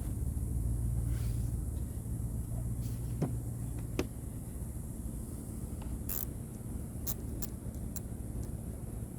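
Low steady rumble of a running car engine, with a steady hum that fades about four seconds in and several sharp light clicks.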